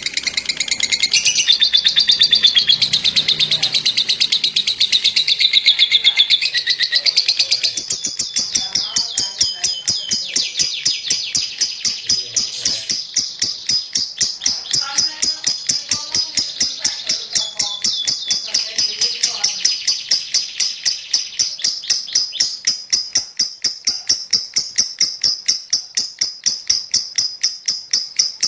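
Lovebird singing its long chattering "ngekek" song. It is a dense, high warble for the first several seconds, then settles into a long, unbroken run of sharp, rapid notes at about four or five a second.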